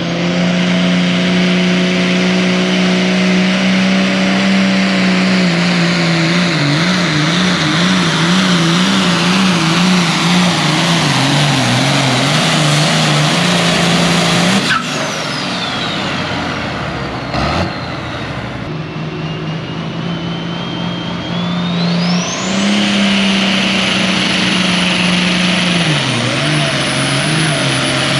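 Turbocharged diesel pulling tractor engine running hard, its speed wavering. A high turbo whine falls away about halfway through, then climbs sharply to a steady high whistle near the end.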